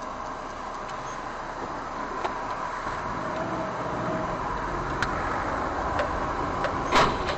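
A car driving, with steady road and engine noise as picked up by a dashboard camera, slowly growing louder. There is a sharp click about five seconds in and a sudden loud sound near the end.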